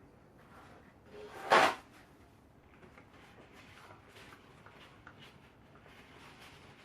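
A single short clatter about a second and a half in, like a lid or door being shut, with faint handling ticks for the rest.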